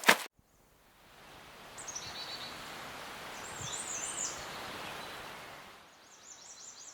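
A burst of machine-gun-like fire cuts off right at the start. After a second of silence, an outdoor nature ambience fades in: a steady noisy background with small birds chirping in short falling notes, fading away near the end.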